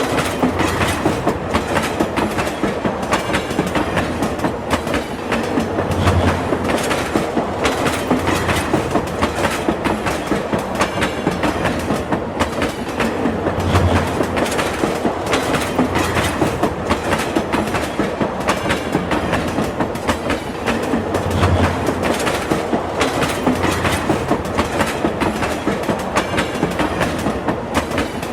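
A train running at speed over a bridge, its wheels clattering rapidly over the rail joints in a steady clickety-clack. A deeper low thump comes back about every seven to eight seconds.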